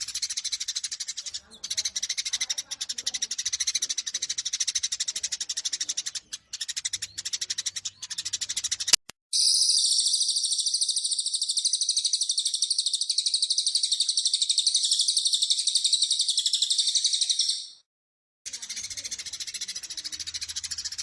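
Eurasian tree sparrows chattering in rapid, harsh fighting calls. About nine seconds in, a click cuts to a louder, continuous high-pitched bird twittering, which stops abruptly near the end. After a short silence the sparrow chatter starts again.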